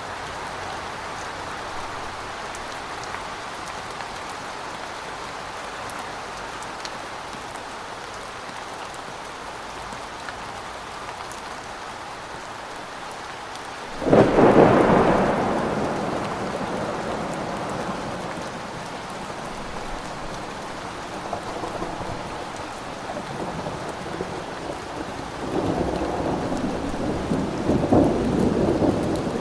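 Steady rain falling, with a sudden loud thunderclap about halfway through that rumbles away over several seconds. Thunder rumbles again near the end.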